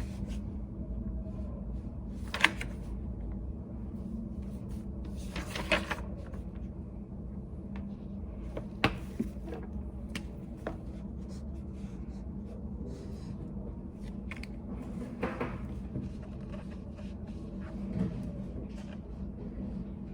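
Study cafe room tone: a steady low hum with scattered small clicks, knocks and rustles from people working at desks. The sharpest knocks come about two and a half and nine seconds in, with a short scraping rustle around six seconds.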